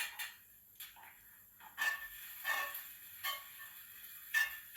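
A metal spoon stirring and scraping in a small dish, a series of short scrapes and clinks, about six in all, with a light ring on each.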